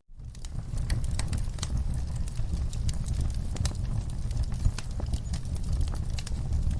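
Wood fire crackling in a fireplace: a steady low rumble of the flames with many irregular sharp pops and snaps from the burning logs. The sound rises from a brief dropout right at the start.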